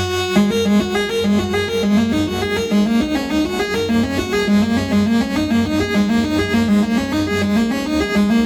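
Eurorack modular synthesizer music: a held chord breaks off about half a second in into a fast, repeating sequence of short plucked-sounding notes stepping up and down, over a steady low drone.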